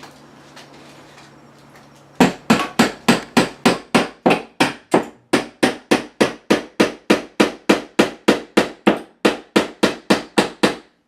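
Hammer driving a nail into a solid redwood wall stud: a fast, steady run of about thirty blows, roughly three a second, starting about two seconds in.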